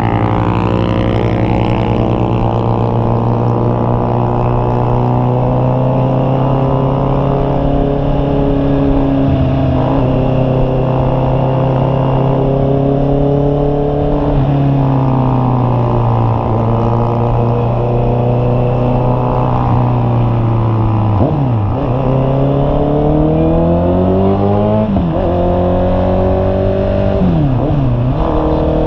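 Honda CB650R's inline-four engine running at a steady cruise. In the last third it accelerates through the gears, its pitch climbing and dropping sharply at each upshift.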